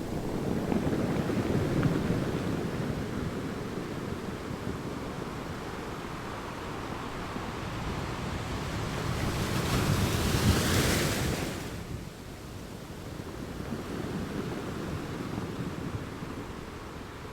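Sea waves breaking against rocks, a continuous wash with one louder surge and crash near the middle that dies away, with wind buffeting the microphone.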